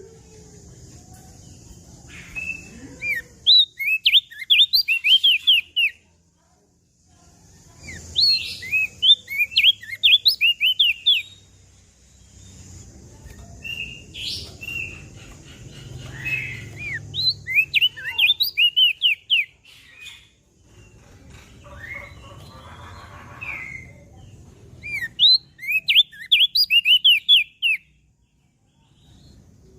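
Crested white-eye (opior jambul) singing in repeated bursts of quick, high chirping notes, a phrase every few seconds with short pauses between.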